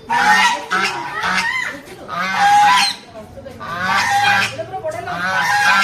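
Geese honking in repeated bouts of loud calls.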